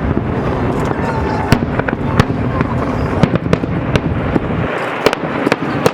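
Fireworks display: shells bursting in quick succession, about a dozen sharp bangs and cracks over a steady din of crackling, the bangs coming closer together near the end.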